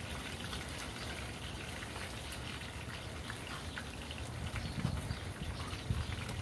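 Tilapia frying in hot oil: a steady sizzle with scattered small crackles and pops.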